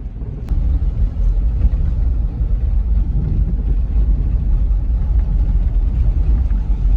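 Car driving on rough, winding roads, heard from inside the cabin: a loud, steady low rumble of engine and road noise that gets louder about half a second in.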